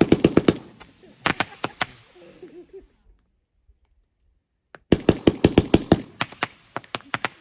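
Fireworks going off in rapid strings of sharp bangs, several a second. One string runs at the start, then there is a short pause. A second, longer string starts about five seconds in and slows toward its end.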